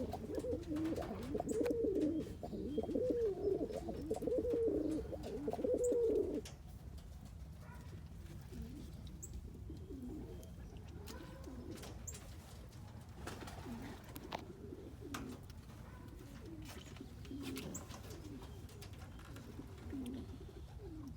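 Roller pigeon cock birds cooing: loud, close cooing for the first six seconds or so, then softer scattered coos, over a steady low hum.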